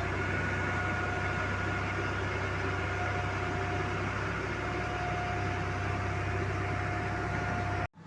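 An engine running steadily with a steady low hum and a faint whine, which cuts off abruptly near the end.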